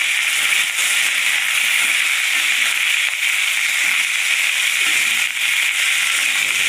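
Cut okra sizzling and crackling in hot mustard oil in an aluminium kadai as it is stirred, a steady loud frying hiss.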